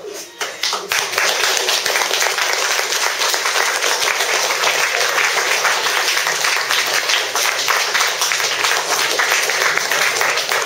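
Audience applauding: dense clapping that starts at once and builds within about a second into steady applause.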